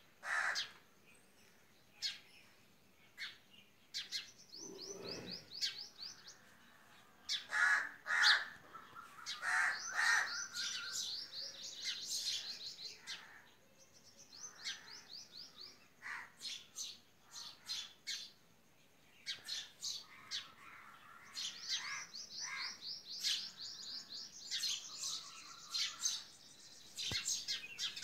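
Small birds chirping and trilling: many short sharp chirps, with several rapid runs of high repeated notes lasting one to three seconds each.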